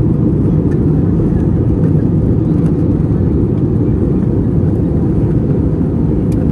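Steady cabin noise inside an Airbus A321 in flight: an even, deep rumble of airflow and the IAE V2500 turbofan engines, with no change in pitch or level.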